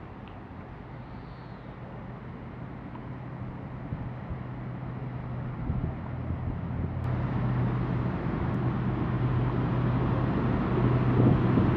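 Diesel train approaching, its steady engine hum growing steadily louder.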